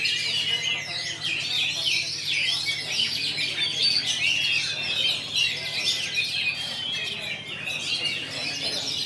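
Many oriental magpie-robins (kacer) singing at once: a dense, unbroken chorus of overlapping rapid chirps and whistles. A steady low hum runs underneath.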